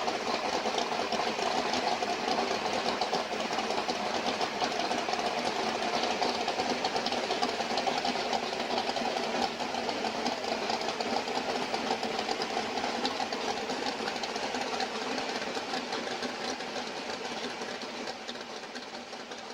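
Freshly rebuilt engine running steadily with a fast, even mechanical clatter, just after its ignition timing has been set. It fades slightly near the end.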